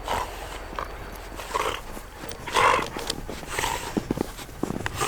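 Dogs playing in snow: short breathy huffs and scuffles about once a second, with a quick run of scuffling steps near the end.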